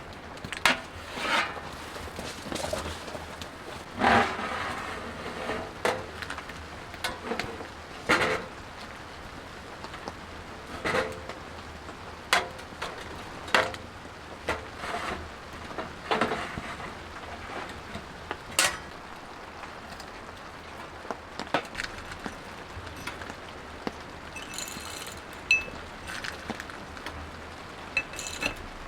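Irregular knocks, taps and clinks of objects being handled, one or two a second, over a steady hiss of rain.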